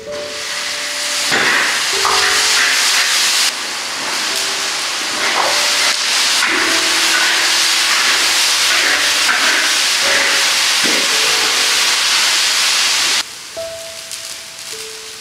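Tomato and cauliflower hitting hot oil in a wok and sizzling loudly as they are stir-fried, with a few strokes of the spatula against the pan. The sizzle cuts off sharply near the end.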